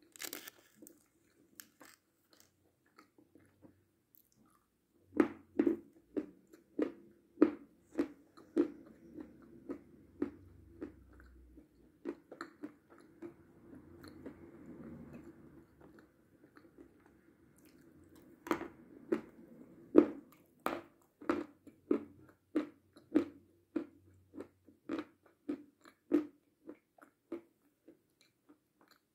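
Close-up chewing of a chocolate candy with the mouth closed: crisp crunches and moist mouth clicks about one and a half a second, in two runs with a quieter pause of several seconds between them.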